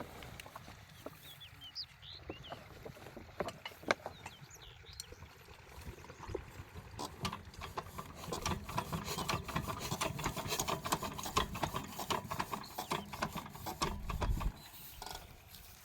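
Birds chirping faintly at first, then from about six seconds in a rapid irregular mechanical clattering that grows louder and stops abruptly near the end.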